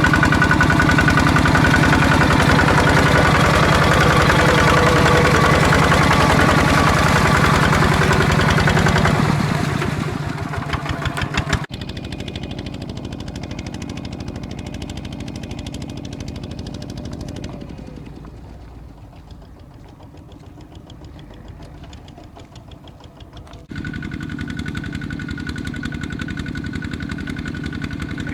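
Diesel tractor engine running steadily with a fast, even beat. It is loud for about ten seconds, then drops to a quieter run and fades further for a few seconds before cutting back in loud near the end.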